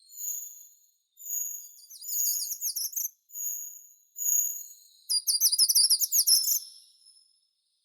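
A songbird singing: several drawn-out high whistles that swell and fade, broken by quick rattling trills, the loudest run coming about five seconds in.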